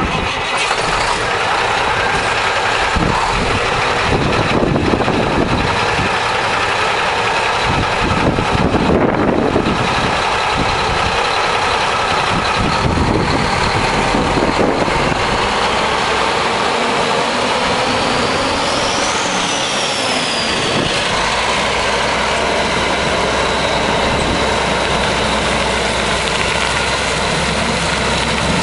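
Mack diesel engine of a 1994 Mack truck running at idle, steady and loud. About two-thirds through, a high whine briefly rises and falls.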